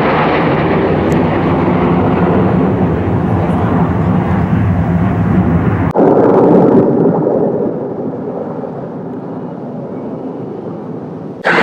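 Military jet aircraft engine noise, loud and steady. It breaks off suddenly about six seconds in and is replaced by another jet sound that slowly fades, then jumps back to loud near the end.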